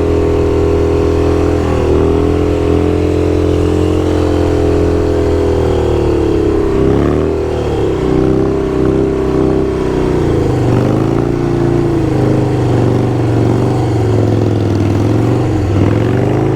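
Motorcycle engine running at a steady cruise while riding. Its pitch drops about seven seconds in and again around ten seconds, then climbs near the end.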